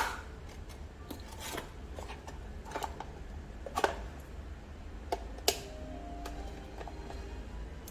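A few separate sharp clicks, about six spread over several seconds, over a steady low hum.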